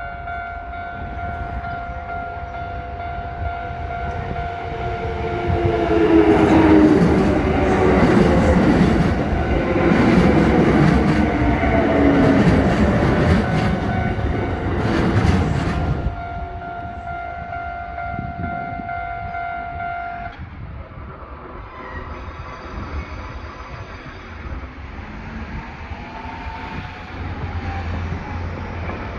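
Japanese railway level-crossing alarm ringing steadily while a train passes through the crossing. The loud rumble of the train, with tones that sink in pitch, builds from about five seconds in and cuts off at about sixteen seconds. The crossing alarm stops about twenty seconds in.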